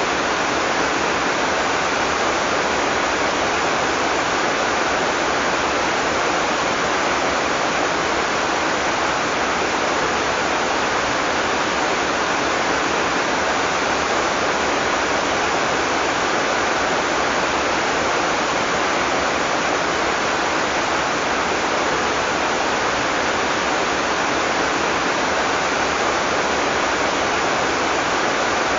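Heavy tropical rain falling steadily, a constant even hiss with no thunder.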